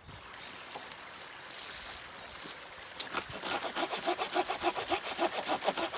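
A hand saw cutting wood, starting about halfway in with quick, even strokes, about five a second.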